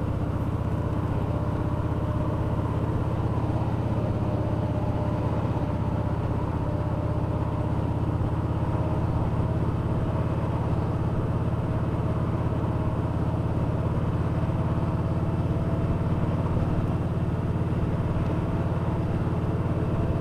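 Kawasaki Voyager 1700's V-twin engine running steadily as the motorcycle cruises at a constant speed, with wind and road noise.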